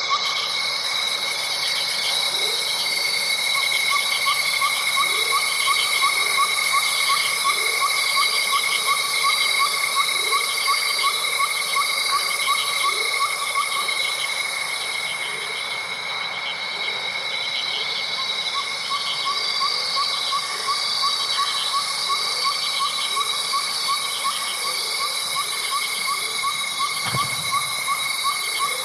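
Night chorus of insects trilling steadily at several pitches. One rapid pulsing trill drops out for a few seconds midway, and short low rising calls come about once a second.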